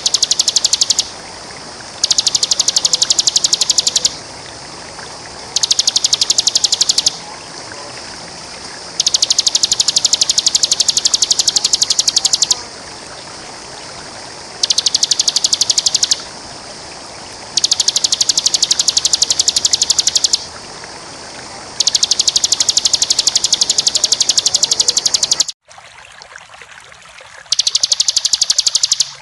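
Bar-winged prinia (ciblek) singing its rapid, high trilled 'ngebren' song in bouts of one to four seconds with short pauses, about eight bouts in all. Under it is a steady rush of running water that drops away suddenly near the end.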